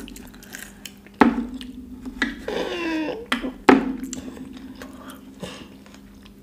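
Chewing and mouth sounds from a mouthful of food, with two sharp knocks on the dishes or table, one about a second in and one past the middle, each leaving a short low ring. Between the knocks comes a brief wavering vocal sound.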